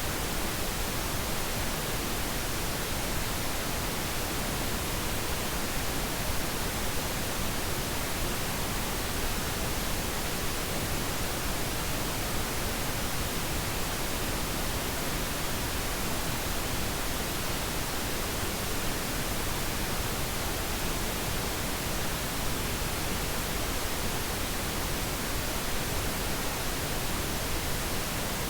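Steady, unchanging pink noise: an even hiss spread across the whole range, used as a sleep aid.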